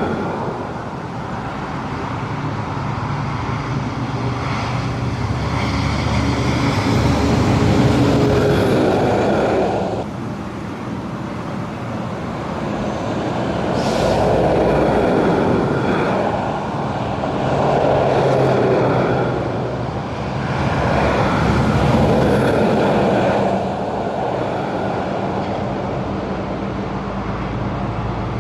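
Heavy trucks crossing a road bridge one after another: diesel engine tones and tyre noise that swell and fade about four times as each truck goes by.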